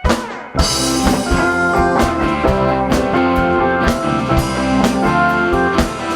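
Live rock band playing an instrumental passage on electric guitar, bass and drum kit. After a brief drop the band comes back in with a loud cymbal-crash hit about half a second in, then plays on with a steady beat.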